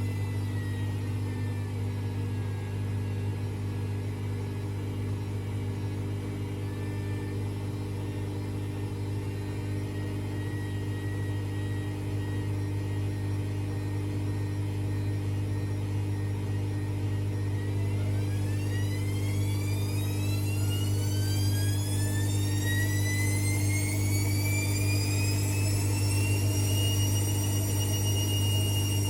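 AEG Lavamat Exclusiv 6469AFL washing machine running with a steady low hum. Just over halfway through, the drum motor's whine starts and rises steadily in pitch for several seconds, then levels off as the drum spins up.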